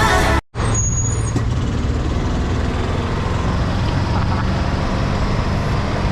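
Steady low rumble of a moving road vehicle, engine and road noise, heard while riding in it. It starts right after music cuts off about half a second in.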